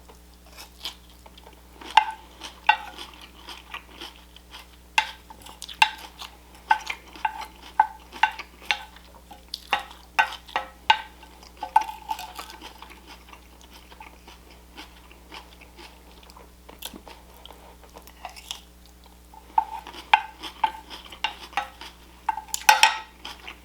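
Close-up chewing and crunching of salad, with short clicks of a fork against a dish. The clicks and crunches come in runs, with a quieter stretch in the middle.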